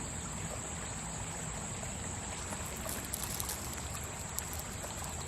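Shallow stream flowing, a steady babble of running water, with a few light clicks in the second half.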